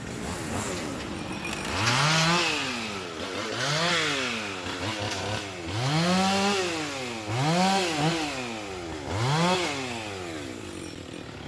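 Chainsaw engine revving up and down about five times, the pitch climbing and dropping back on each rev.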